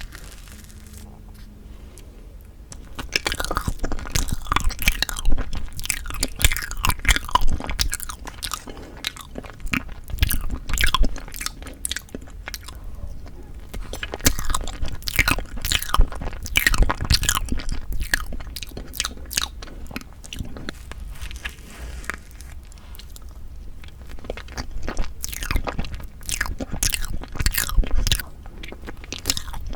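Close-miked ASMR eating sounds: a mouth biting and chewing bean curd tiramisu cake, a dense run of quick wet clicks. The chewing starts about three seconds in and eases off briefly a little past two-thirds of the way.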